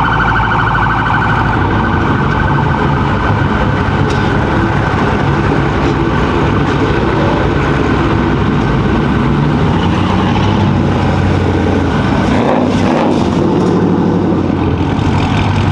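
A police siren sounds with a rapid, pulsing warble over the low rumble of car engines. The siren grows weaker after about six seconds while the engine rumble goes on.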